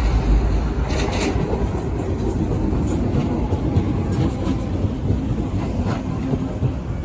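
Docklands Light Railway train running at the station: a steady rumble with a faint whine, and a few sharp clicks about a second in and again near the end.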